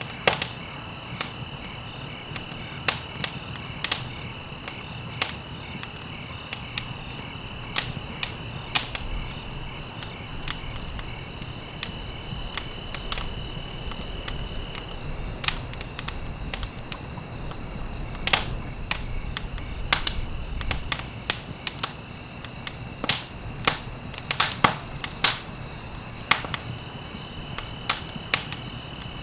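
Wood fire crackling: irregular sharp pops and snaps, sometimes in quick clusters, over a steady low rush of burning.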